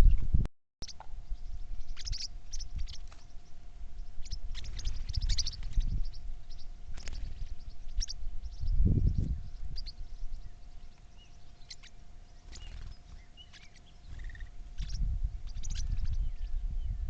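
Birds chirping: many short, scattered calls over a faint steady hum and low rumbling.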